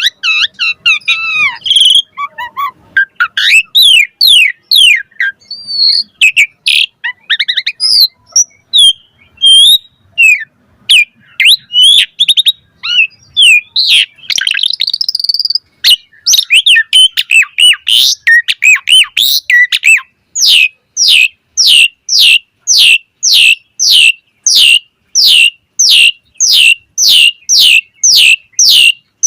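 Asian pied starling (jalak suren) singing a loud, varied run of whistles and chirps. About two-thirds of the way in it shifts to a fast, even series of sharp repeated notes, about two a second.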